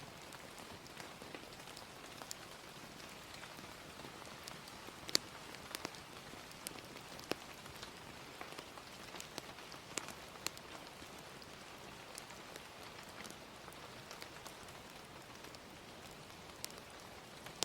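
Gentle steady rain with a fire crackling, its sharp pops scattered irregularly through the hiss, a few louder ones in the middle.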